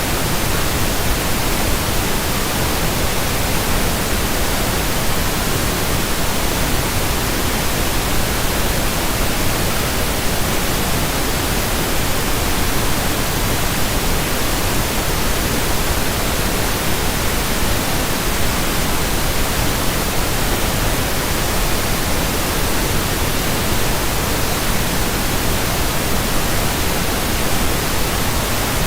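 Pink noise: a steady, even hiss spread across the whole range, with no change throughout.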